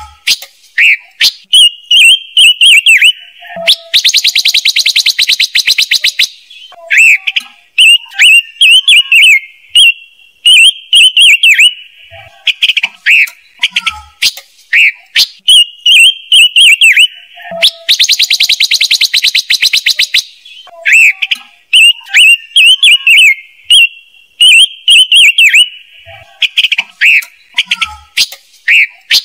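Recorded lure calls of the songbird sold as ngũ sắc, played for a trap loudspeaker. Quick, sharp chirping notes follow one another, and a harsh buzzy rattle about two seconds long breaks in twice. The recording repeats as a loop.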